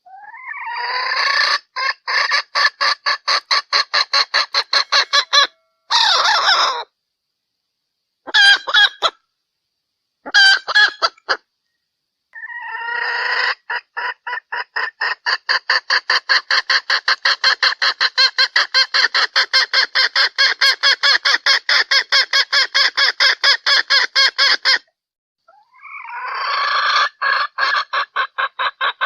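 Junglefowl hen call, used as a lure for cock birds: rapid, evenly repeated clucks in long runs, broken by a few short bursts and pauses.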